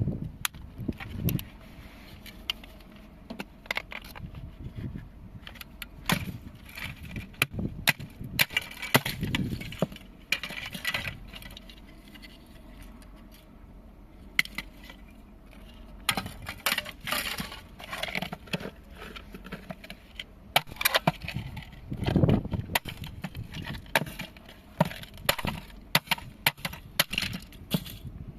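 Repeated sharp cracks, knocks and clinks of a small appliance being broken apart, hard pieces snapping and clattering in irregular clusters.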